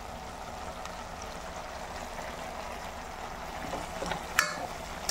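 Chicken pieces sizzling steadily in oil in a steel pot, spiced with chilli powder, garam masala and salt for a chicken curry. About four seconds in, a metal spatula clinks and scrapes against the pot as the spices are mixed in.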